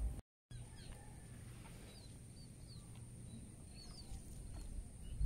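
Birds chirping faintly outdoors: a scattering of short, high, falling chirps over a low steady rumble. The sound drops out completely for a moment just after the start.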